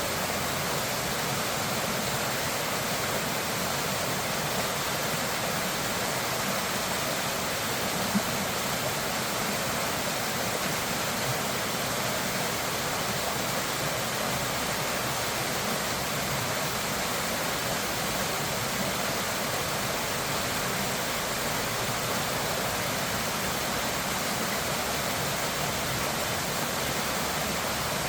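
Steady rushing of floodwater or a waterfall, an even roar that does not change, with one brief knock about eight seconds in.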